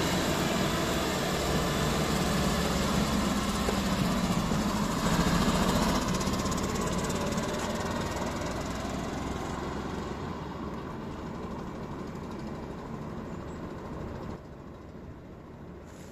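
A vehicle engine running, loudest about five seconds in and then gradually fading away, with a sudden drop in level near the end.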